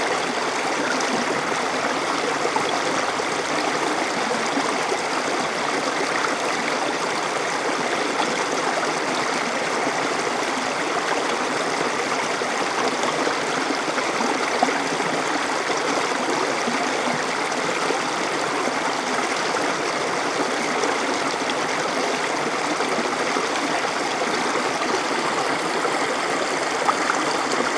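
Small stream flowing steadily, water running and splashing over rocks.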